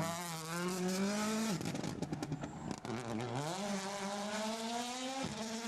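A WRC Rally1 rally car's 1.6-litre turbocharged four-cylinder engine at racing speed. The revs drop as it slows, pop and crackle on the overrun for about a second and a half, then climb hard again, with a quick gear change near the end.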